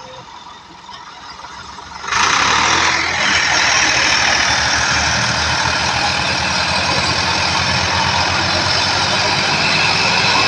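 Tractor engine running, jumping sharply louder about two seconds in and then staying loud and steady with a fast low pulsing.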